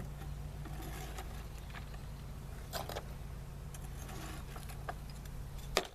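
Light clicks and scrapes of a hive being handled as it is opened and its frames checked, with a sharp knock near the end, over a steady low hum.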